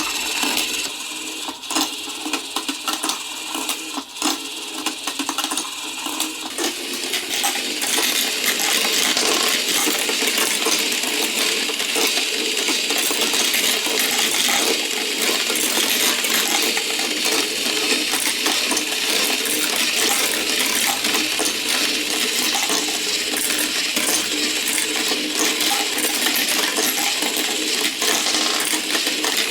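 Marbles rolling and clicking along a block marble run: separate clicks at first, then about seven seconds in a dense, steady clatter as many marbles run down the track at once.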